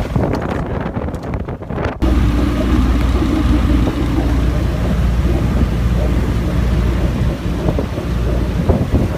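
Wind buffeting the microphone for about two seconds, then after a sudden cut a boat engine running steadily as a low hum under the wind noise.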